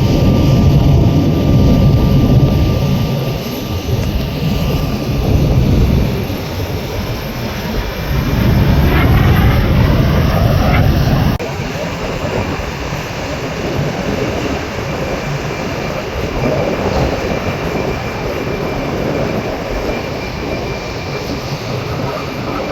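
Aermacchi MB-339 jets of an aerobatic display team flying past: a loud jet rumble that swells and fades several times, with a rising whine about nine to eleven seconds in. The sound drops sharply about eleven seconds in and goes on quieter.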